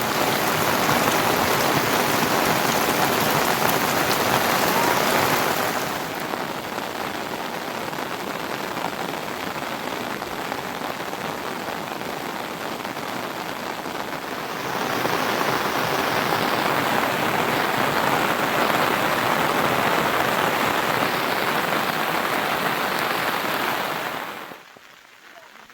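Heavy monsoon rain pouring down in a steady dense hiss. It eases to a softer level about six seconds in, swells back up around fifteen seconds, and falls off sharply near the end.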